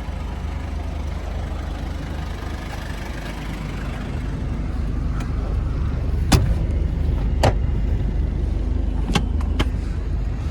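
Mazda Bongo Friendee's 2.5-litre turbo diesel idling steadily, with four sharp clicks and knocks in the last few seconds as the rear seats are latched flat into a bed.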